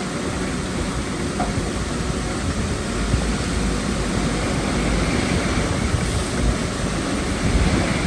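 Heavy diesel earthmoving machinery running steadily, a continuous deep rumble with a noisy mechanical wash over it.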